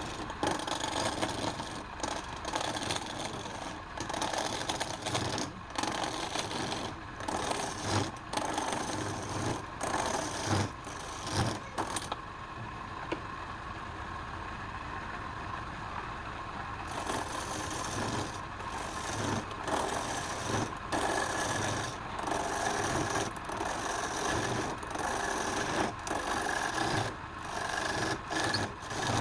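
Wood being cut and scraped by a tool, a steady rasping broken by many short pauses as the tool lifts off. About halfway through there are a few seconds of quieter, smoother running.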